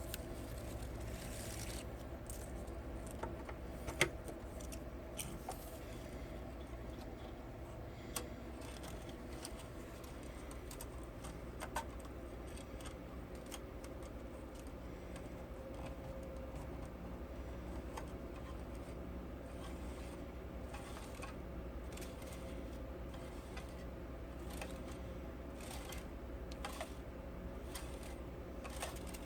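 Steady low hum and faint hiss with scattered small clicks, one sharper click about four seconds in: background noise on the soundtrack of a silent 8mm home-movie transfer.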